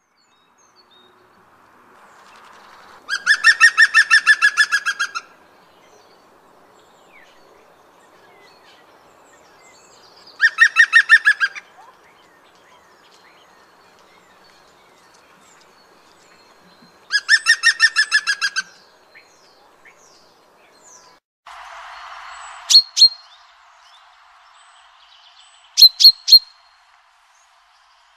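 Bird calls: three rapidly pulsed calls of about two seconds each, several seconds apart, then short sharp chirps in twos and threes near the end.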